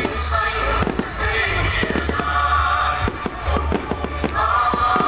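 Aerial fireworks going off in a rapid string of bangs and crackles, with music playing loudly underneath.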